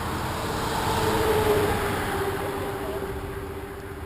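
Motorcycle engine passing and riding away: the note swells, then drops a little in pitch and fades.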